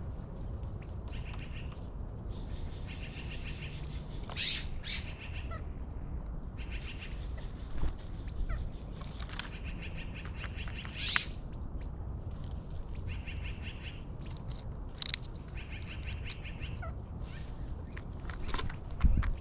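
Wild birds at a backyard feeder: a short trilled song about a second long, repeated every few seconds, with sharp single calls cutting in now and then, over a steady low outdoor rumble. A low thump near the end.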